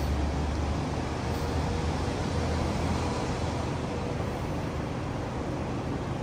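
Car engine idling, a steady low hum with an even hiss, heard from inside the cabin.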